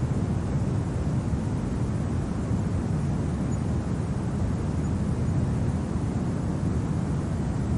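Steady low winter wind, an even rumbling rush with no gusts or separate sounds standing out.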